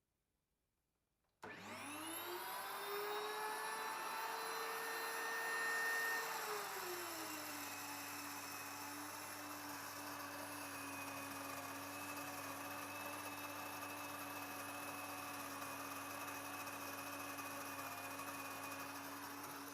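WonderMill electric grain mill switched on, its high-speed motor whining up to speed with a rising pitch, then running steadily and very noisily. About six seconds in the pitch drops and holds lower, as the motor takes the load of wheat grain being milled into flour.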